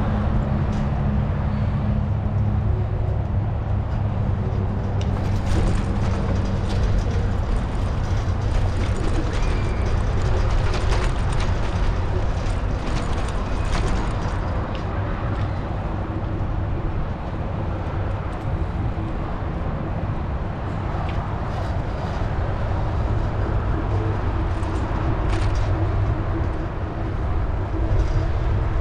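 Steady road traffic with a continuous engine hum and rumble, and scattered sharp clicks and knocks through the middle.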